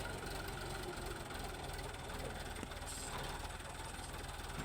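Tractor's diesel engine running steadily, with a fast, regular low chugging.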